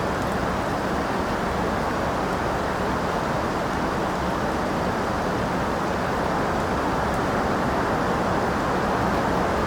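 Steady rain, an even, dull hiss with little treble and no separate drops or thunder.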